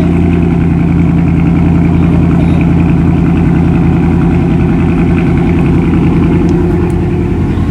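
Dodge Charger 392 Scat Pack's 6.4-litre HEMI V8 idling steadily and loudly.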